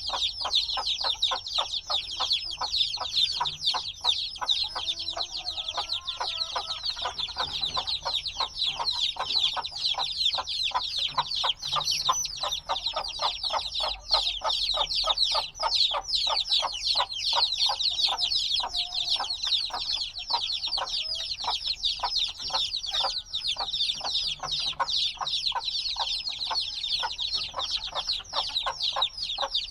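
A brood of chicks a few days old chirping constantly: a dense, unbroken chorus of many overlapping high peeps, with fainter lower calls running beneath.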